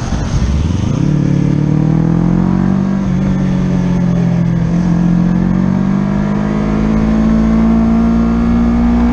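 Motorcycle engine pulling hard: the revs sweep up quickly about a second in, then climb slowly and steadily under load for several seconds.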